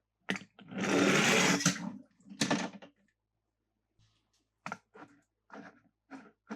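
Handling noises from plastic toy cars and their packaging: a long rasping burst about a second in, another short one, then a run of short scrapes about two a second near the end.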